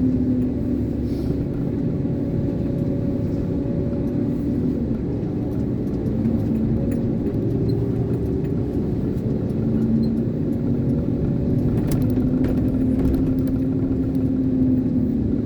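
Diesel engine of an Iveco concrete mixer lorry running steadily, heard from inside the cab, at low road speed. Its note drops a little about five seconds in and rises again about ten seconds in.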